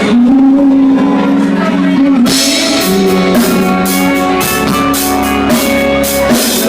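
Rock band playing live: guitar and drum kit, with cymbals struck again and again from about two seconds in.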